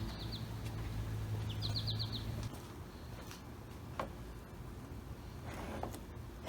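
A small bird chirping in the background: two quick runs of high chirps in the first two seconds, over a low steady hum that stops partway through, with a single click later on.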